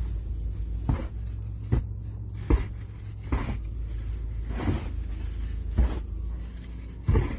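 Repeated crunches in deep snow, about one a second, some stronger than others, over a steady low rumble.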